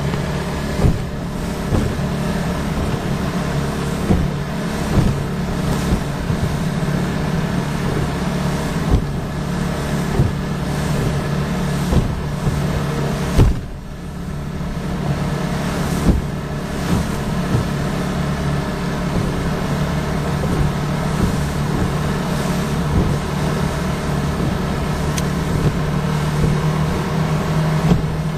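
Outboard motor running steadily as a 1986 Starcraft 16-foot riveted aluminum V-bottom boat crosses rough wind-driven waves, the hull knocking against the chop every second or two. A harder hit comes about halfway through, and the engine sound dips briefly after it.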